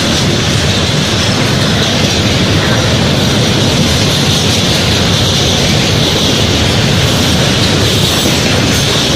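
2TE116U twin-section diesel locomotive running, a steady loud rumble without a break.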